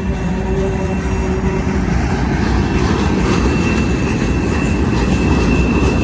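Freight cars rolling past at speed: heavy wheel-and-rail rumble with a thin steady wheel squeal, getting very noisy all of a sudden about two seconds in.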